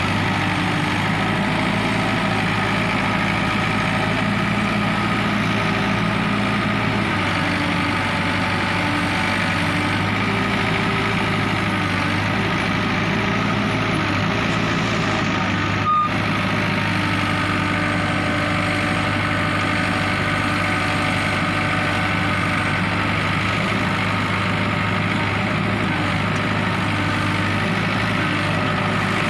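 Ace AX130 backhoe loader's diesel engine running steadily as the machine works, with slight shifts in engine note a few times and a single sharp click about halfway through.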